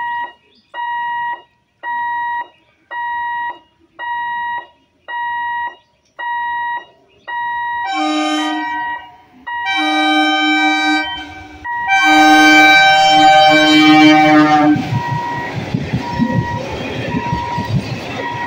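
Level-crossing warning beeper sounding about once a second. An ICF EMU local train then sounds its horn in several long blasts, the loudest part, and from about two-thirds of the way through the 12-coach train rushes past the crossing with a rumble of wheels on rail, the beeper still going underneath.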